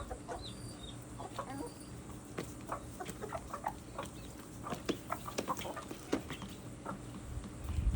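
Chickens clucking softly, many short clucks scattered at an uneven pace, over a steady low hum. A few faint high chick peeps come in the first couple of seconds.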